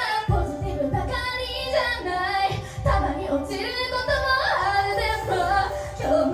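Female idol-group vocals singing an upbeat pop song over a backing track with a steady low beat.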